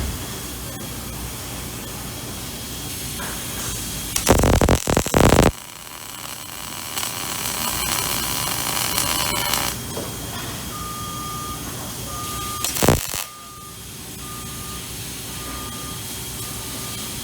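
Welding arc crackling in two short bursts, the first about a second long, over steady shop hiss. From about two-thirds of the way through, a short electronic beep repeats about once a second.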